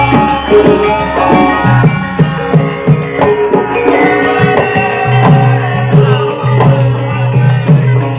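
Javanese gamelan music for a lengger mask dance: ringing pitched percussion holds steady tones over a hand-played kendang drum. The drum strokes come about every 0.7 seconds, each one dropping in pitch.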